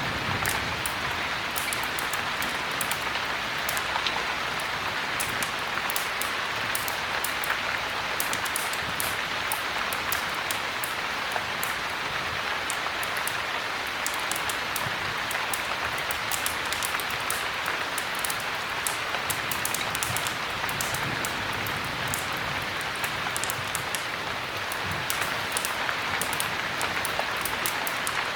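Heavy rain falling steadily: a dense, even patter with many small sharp drop ticks.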